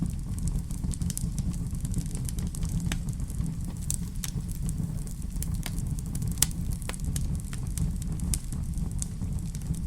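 Fire burning in a fireplace: a steady low rumble of flames with frequent sharp crackles and pops, one louder pop about six and a half seconds in.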